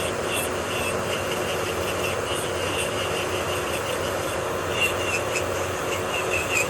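Electric nail drill (e-file) running with a steady motor hum, the bit scraping on the nail in short, intermittent strokes, more often after about five seconds.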